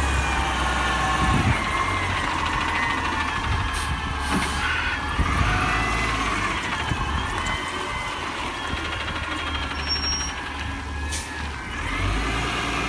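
Garbage truck running: a low diesel engine rumble with a whine above it that rises and falls in pitch, and a couple of sharp clicks.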